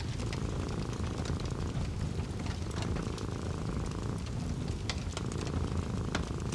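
A cat purring in long stretches, with short breaks about two seconds and four seconds in, over the crackle and pops of a wood fire and a steady low rush of background noise.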